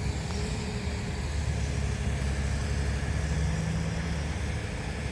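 Steady low rumble of a vehicle engine running, with a faint steady hum over it.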